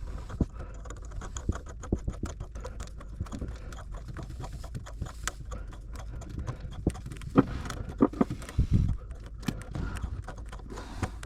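Irregular clicks and knocks of a kitchen faucet's valve-handle mounting bracket and threaded nut being fitted and spun on under the sink, with a few louder knocks and a dull thump near the end.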